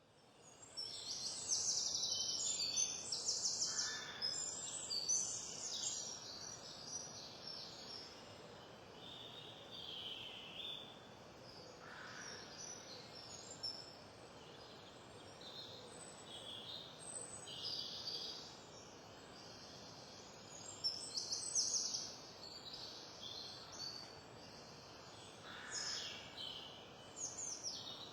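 Small songbirds singing and calling: bursts of high chirps and rapid trills, loudest in the first few seconds and again about 21 seconds in.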